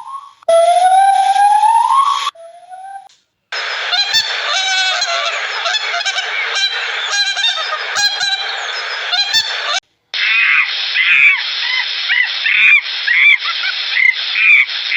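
A whistle-like tone sliding up in pitch, then a flock of geese honking: first a dense overlapping chorus, then, after a brief break, separate honks several times a second.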